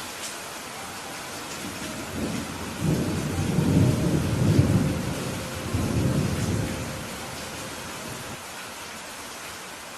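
Steady rain with a rolling rumble of thunder that builds about two seconds in, is loudest near the middle, and dies away a couple of seconds before the end.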